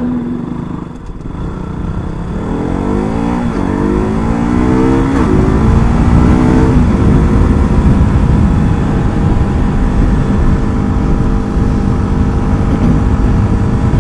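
KTM RC 200's single-cylinder engine accelerating, its pitch rising three times with a drop between each as it shifts up through the gears. Then a steady loud rush of wind and road noise at cruising speed.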